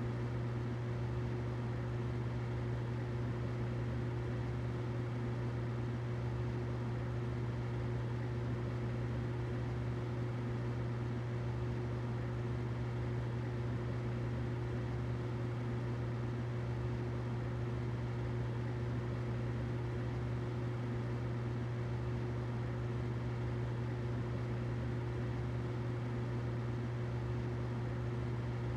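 Humidifier running: a steady low hum with a fainter, higher steady tone and an even hiss over it.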